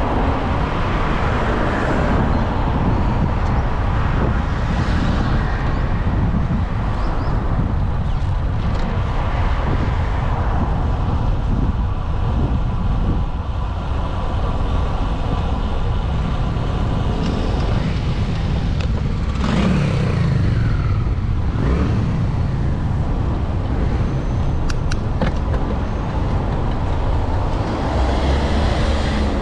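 Street traffic noise with a steady low rumble while riding a bicycle through city streets. About two-thirds of the way through, a vehicle passes close, its pitch dropping as it goes by.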